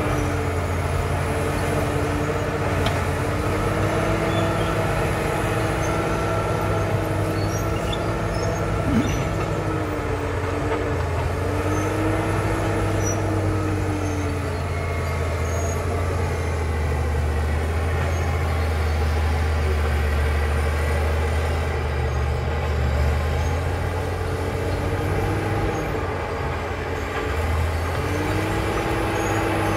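Caterpillar D7 crawler bulldozer's diesel engine running under changing load, its note dipping and picking up again several times, with a thin high whine above it.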